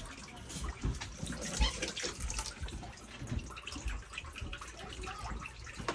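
Floodwater in a flooded basement trickling and splashing, with many small splashes and drips and a few dull low knocks.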